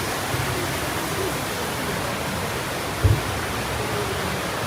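Waterfall rushing steadily, with a brief low thump about three seconds in.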